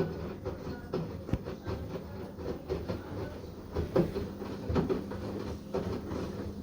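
Washing machine running a wash: the drum turning the clothes with irregular knocks over a steady motor hum.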